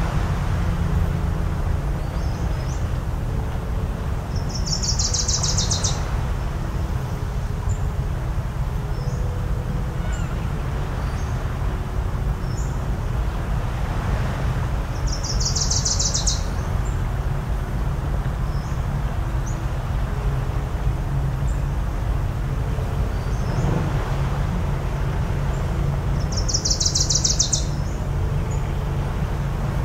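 A bird gives a loud, high call three times, about every eleven seconds, with faint scattered chirps from other birds between. Underneath is a steady low shoreline rumble from surf and distant motors.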